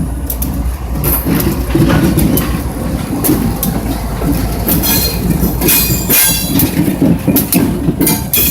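Train running on the rails: a steady low rumble with repeated clicks of wheels over rail joints. High metallic wheel squeal comes in about five seconds in.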